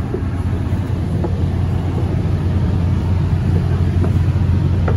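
Steady low rumble of a moving SunRail bi-level commuter coach heard from inside, its wheels and running gear on the track, with a few faint clicks.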